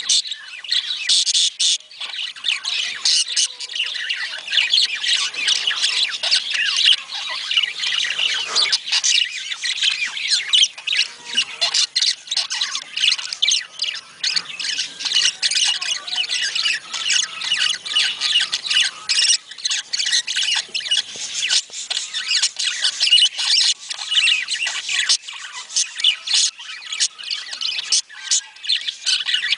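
Budgerigars chattering: a dense, unbroken stream of overlapping warbles, chirps and squawks.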